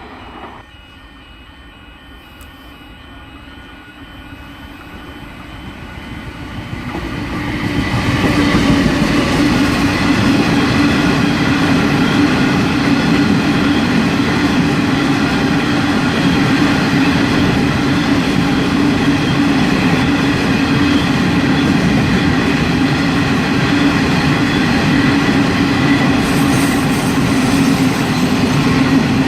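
Freight train of empty limestone wagons hauled by two NR class diesel-electric locomotives, approaching and passing close by. It grows louder from about four seconds in, reaches full loudness at about eight seconds, then the wagons' wheels run past steadily on the rails.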